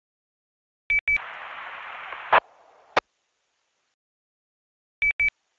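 Two-way radio transceiver: a double beep about a second in, then about a second of squelch hiss that ends in a sharp click. A fainter hiss follows, ending in another click, and a second double beep comes near the end. In between the audio is dead silent with the squelch closed.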